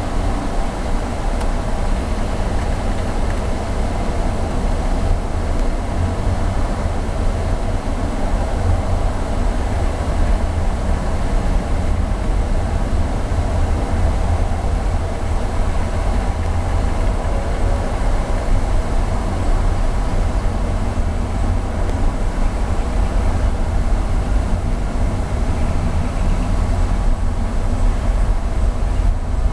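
Mazda MX-5 Miata's four-cylinder engine running steadily with a low rumble.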